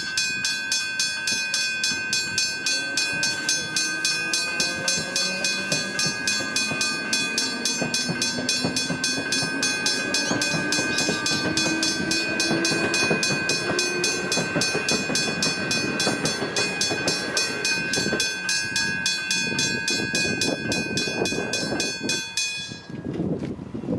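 Level-crossing bells ringing in rapid, even strokes: a Westinghouse hybrid bell and an electronic bell together. Under them a train moves through, with a low whine rising in pitch as it gathers speed. The bells cut off a second or so before the end, leaving the train's wheel clatter.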